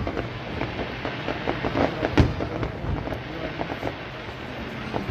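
Aerial firework shells bursting: a run of bangs and crackles, the loudest bang about two seconds in.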